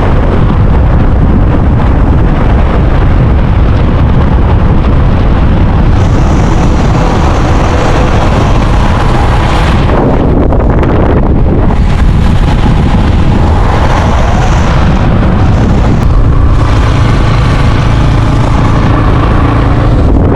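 Motorcycle riding along, its engine running steadily under heavy wind buffeting on the microphone.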